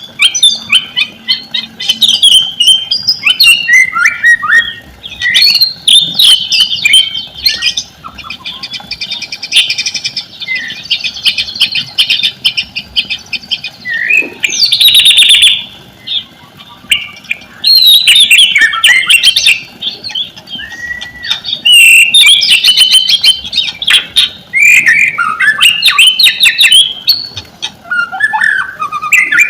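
White-rumped shama (murai batu) in full, loud song: quick varied whistled phrases broken by rapid rattling clicks and a long buzzy trill about a third of the way through. This is the bird in 'gacor' form, the kind of song played as a lure to get other shamas singing.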